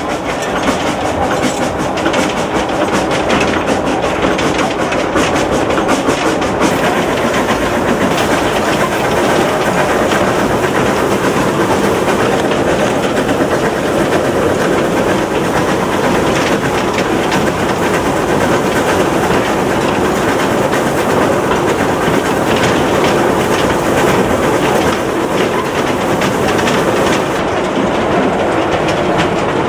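Narrow-gauge steam train running: a steady, loud rumble and clatter of the wheels on the rails, heard mostly from the locomotive's cab.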